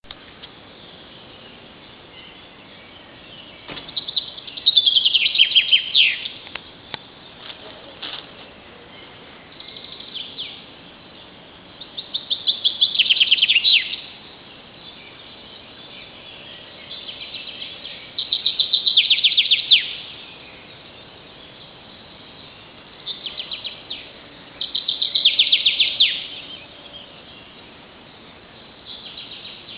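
Songbird song in spring: short phrases of quick notes falling in pitch, each about two seconds long, repeated about every six seconds, with fainter bird calls in between.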